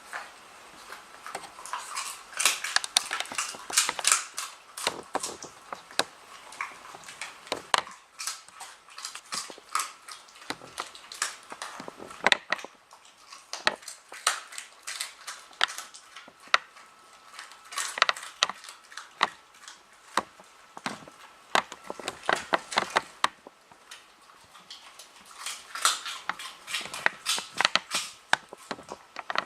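A smooth fox terrier chewing and crunching at a toy: dense clusters of sharp crackling clicks with short lulls between them.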